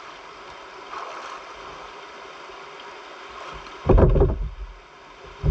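Steady noise of a jet ski out on the sea, its engine and the water under it, with a loud burst about four seconds in.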